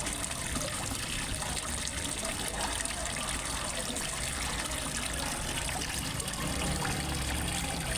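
Small waterfall splashing and trickling steadily into a fish pond.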